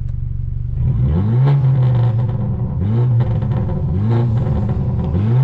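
Straight-piped exhaust of a Stage 2+ tuned BMW F30 328i's turbocharged four-cylinder accelerating hard. The engine note climbs in pitch three times with drops between, as through upshifts.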